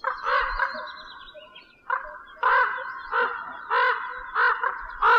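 A bird giving a run of harsh, repeated calls: one longer call at the start, then half a dozen short ones roughly every half second to second.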